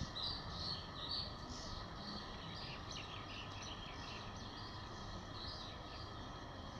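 Small birds chirping in quick high twitters, busiest in the first few seconds and again briefly later, over a steady faint hiss.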